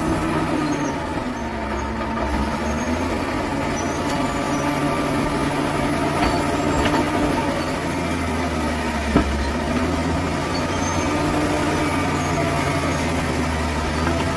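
Bulldozer's diesel engine running steadily under working load. Its pitch sags and recovers twice, and there is one sharp knock about nine seconds in.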